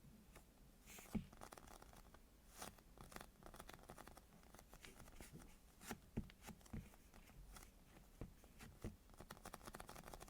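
Soft squishy toys being squeezed and handled close to the microphone: quiet, irregular crackling, rustling and small clicks.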